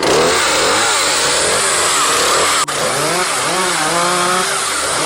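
Chainsaw running hard, its engine pitch rising and falling repeatedly as it cuts, with a brief break about two and a half seconds in.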